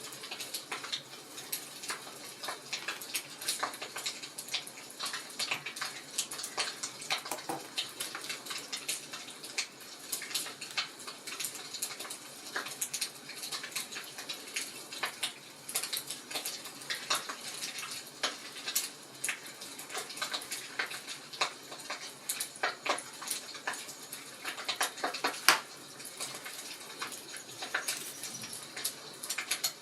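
Fireplace fire crackling: a steady stream of irregular small pops and snaps over a soft hiss, with one louder pop towards the end.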